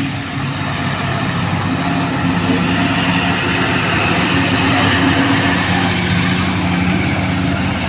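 Heavy diesel truck loaded with about 30 tonnes of palm fruit, its engine working hard under load on a steep climb. A steady engine note settles in about a second and a half in.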